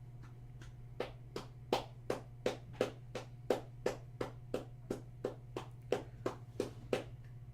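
Evenly spaced sharp hand taps, about three a second, starting about a second in, over a steady low electrical hum.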